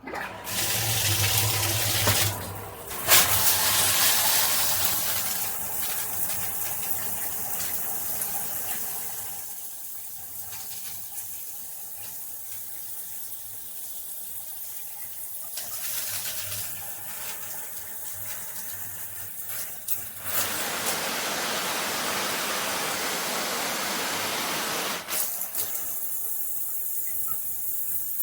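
Water spraying from a shower head. The spray runs without a break but shifts in loudness and texture several times, with a louder, hissier stretch near the end.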